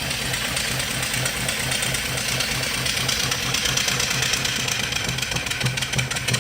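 Vertical steam engine with a 3-inch bore and 4-inch stroke, running smoothly on steam from a coal-fired boiler: a steady rhythmic beat over a continuous hiss.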